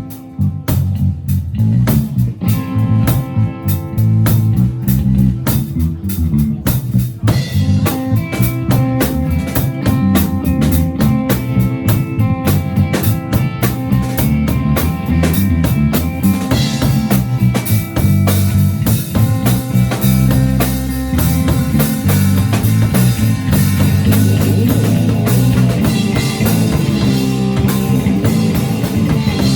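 A live rock band plays with a drum kit, guitar and bass. The drums keep a steady beat with snare and kick, and the band fills out and gets brighter about seven seconds in.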